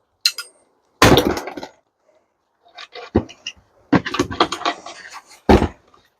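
Dishwasher parts being pulled apart and handled for scrap: irregular clanks, knocks and rattles, with a loud rattling crash about a second in, a brief lull, then busier clatter and a sharp knock near the end.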